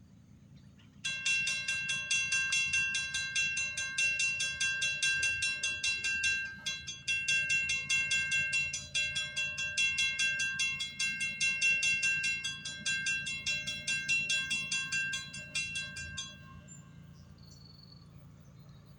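Railroad grade-crossing warning bell ringing rapidly and steadily as the crossing activates for an approaching freight train, then stopping abruptly a few seconds before the end, leaving a low rumble.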